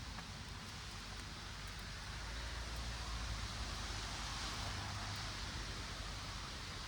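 Steady outdoor rustling noise with a low rumble underneath, like wind moving through leaves and buffeting the microphone.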